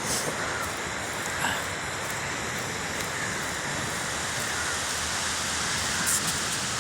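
Steady wash of sea surf on the beach, an even, continuous noise.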